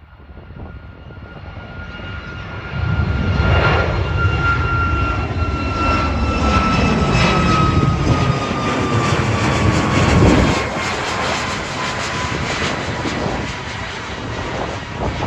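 Boeing 737 MAX 8 jet airliner passing close by, its engine noise building over the first few seconds, loudest about ten seconds in, then easing off. A whine in the engine noise falls slowly in pitch as the aircraft goes past.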